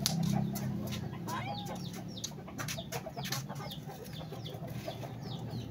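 Birds chirping over and over in short falling calls, with scattered sharp crackles from a charcoal fire flaming under a wire grill.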